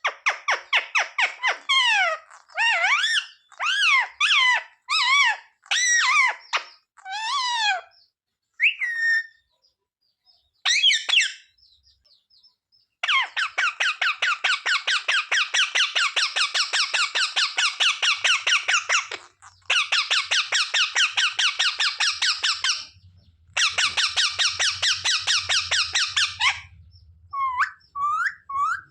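Pet ringneck parrot calling: a string of loud screechy calls that sweep up and down, then long runs of rapid, fast-repeating chattering.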